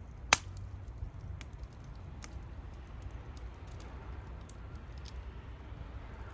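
Wood campfire crackling, with one sharp loud pop about a third of a second in and scattered fainter snaps over a low steady rumble.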